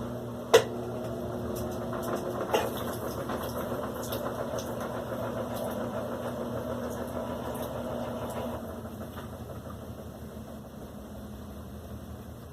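Electrolux LAC16 top-loading washing machine running with a steady mechanical hum, marked by a sharp click about half a second in and another about two and a half seconds in. The hum drops off and quietens about eight and a half seconds in.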